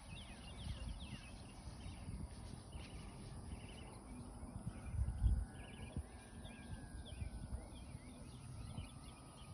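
Small birds chirping, many short rising chirps, over a low rumble on the microphone that is loudest about five seconds in. From about halfway through, a faint distant whine slowly falls in pitch.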